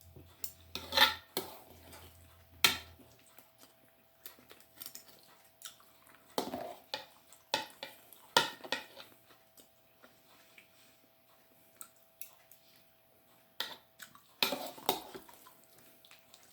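Scattered clinks and taps of eating utensils against dishware while eating, irregular and a few seconds apart, with a faint steady hum underneath.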